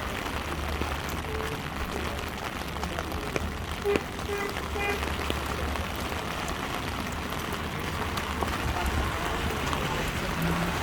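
Heavy rain falling, a dense steady hiss made of many small drop ticks, with a low rumble underneath.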